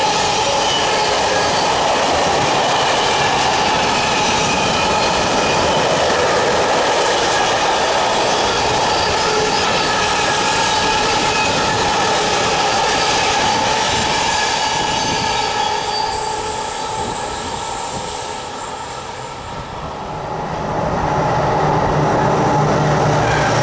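Freight train of covered wagons rolling past with steady wheel noise and squealing. The sound fades as the last wagon passes about 16 s in. From about 20 s in, the low drone of an approaching Vossloh G1206 diesel-hydraulic locomotive grows louder.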